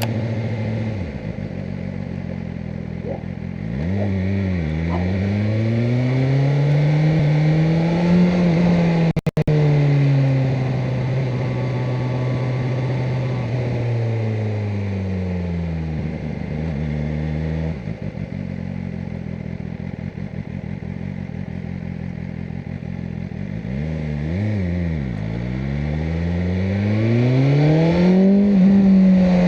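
BMW M1000R Competition's inline-four engine cruising, its revs climbing and falling several times with gear changes and throttle. There is a brief dropout about nine seconds in.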